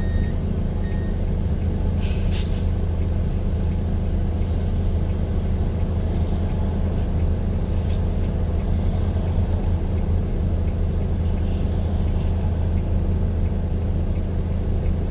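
Steady low rumble of a heavy vehicle's engine running, with a short sharp hiss about two seconds in.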